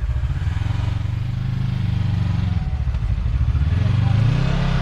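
Side-by-side UTV engine running under load while crawling over rocks, rising in pitch about three and a half seconds in as the throttle is opened, then settling.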